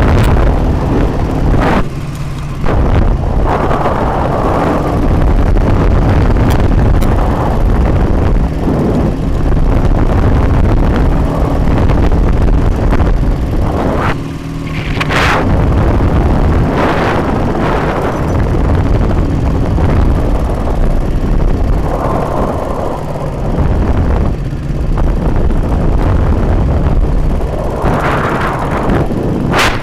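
MT-10-36 motorcycle's flat-twin engine running under load while riding, the engine note changing as it goes. There are brief dips in level about two seconds in and about fourteen seconds in, a few sharp cracks, and wind rushing over the microphone.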